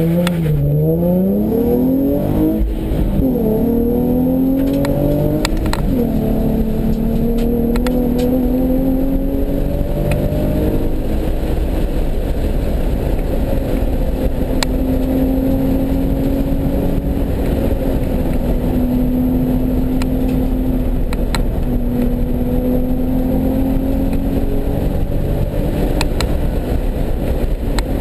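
Nissan 370Z's 3.7-litre V6 under hard acceleration, its pitch climbing and then dropping at upshifts about three and six seconds in. After that it runs hard at speed, the pitch rising and falling slowly.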